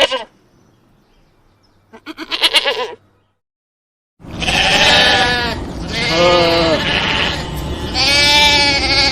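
Sheep bleating: a short wavering bleat about two seconds in, then after a break three long bleats back to back from about four seconds in.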